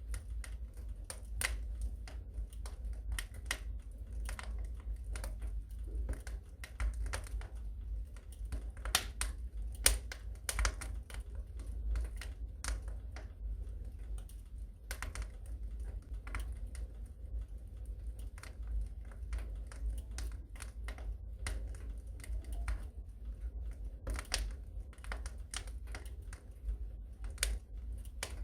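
Wood fire crackling in a fireplace: irregular snaps and pops over a steady low rumble, with the sharpest pops about nine and ten seconds in.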